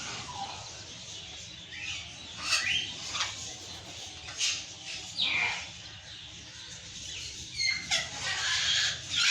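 Pet parrots calling: a series of short, sharp squawks and chirps a second or two apart, several sweeping downward in pitch, the calls coming closer together near the end.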